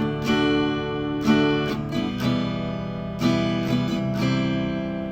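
Acoustic guitar strumming chords in a song's instrumental break, with a new strum about every second and the chord changing a few times.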